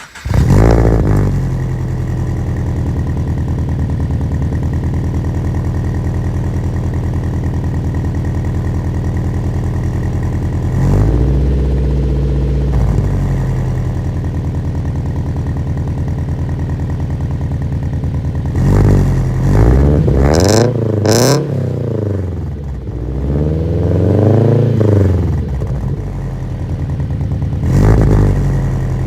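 2013 Scion FR-S's flat-four engine, breathing through Tomei unequal-length headers and an Invidia catless exhaust, catching right at the start and settling into a steady idle. It is revved with throttle blips: one about eleven seconds in, a quick cluster of several around twenty seconds, another around twenty-four seconds, and a short one near the end.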